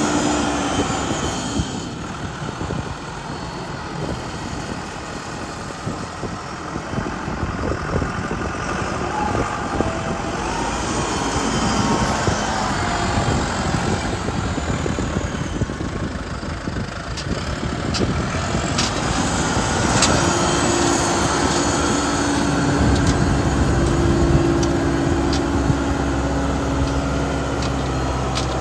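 John Deere tractor engine running, its sound rising and falling in level, with a few sharp clicks about two-thirds of the way through.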